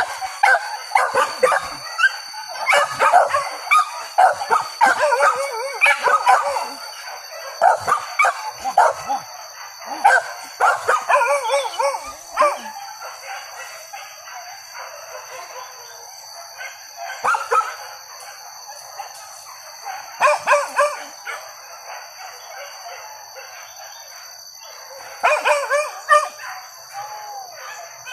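A pack of boar-hunting dogs barking and howling, many voices overlapping. The calls are thick for the first dozen seconds, then scattered, with another burst near the end, over a steady high-pitched drone.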